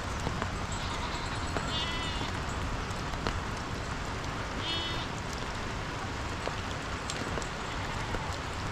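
Sheep bleating twice, two short high calls about three seconds apart, over a steady background hiss.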